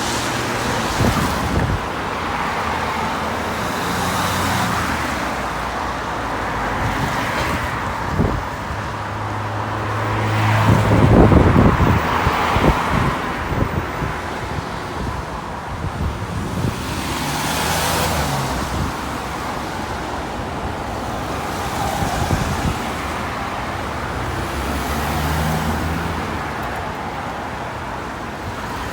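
Road traffic passing: a string of cars and heavier vehicles going by one after another, each swelling and fading. The loudest pass, about 11 seconds in, carries a low engine hum.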